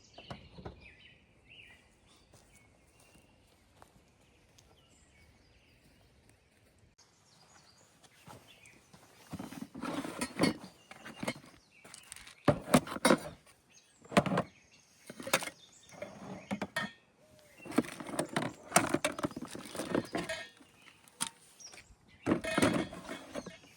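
Faint bird chirps at first. About seven seconds in, irregular knocking, clattering and rustling begins, the sound of things being handled, louder in clusters every second or two.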